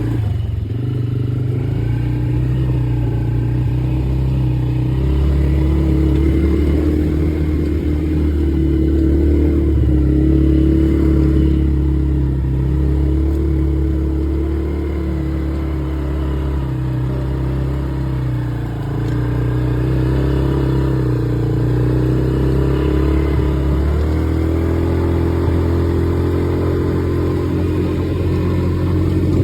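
Polaris quad bike's engine running under way, its note rising and falling a few times with the throttle.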